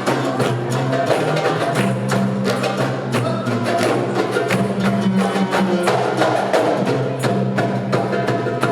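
Ensemble of hand drums, darbukas (goblet drums) among them, playing a fast, dense rhythm of sharp strokes over a held low pitched backing line.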